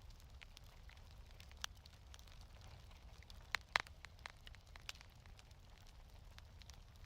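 Fireplace wood fire crackling softly, scattered pops and snaps over a faint low steady rumble, with a couple of louder pops a little past halfway.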